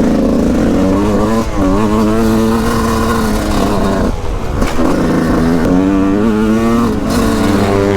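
Two-stroke engine of a 2001 Yamaha YZ125 motocross bike running hard under throttle. Its pitch falls and climbs several times as it is shifted and throttled on and off, with a short break about four seconds in.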